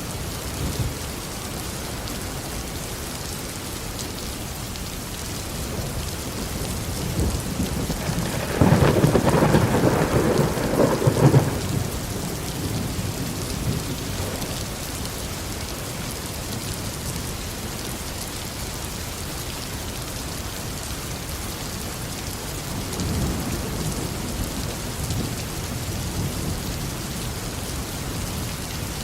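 Tropical rain falling steadily, with thunder: a loud crackling clap and rumble about a third of the way in that lasts about three seconds, and a softer low rumble later on.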